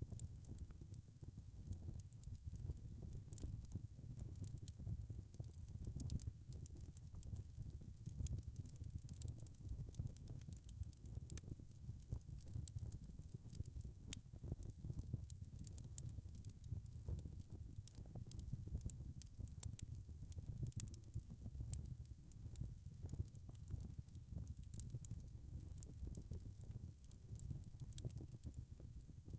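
Wood fire crackling: a steady low rumble of burning with many quick sharp pops and ticks scattered irregularly throughout.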